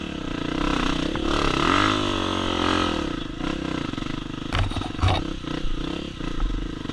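Dirt bike engine running, its pitch rising and falling once in a rev about a second in, then holding steady, with a few sharp knocks about four and a half to five seconds in.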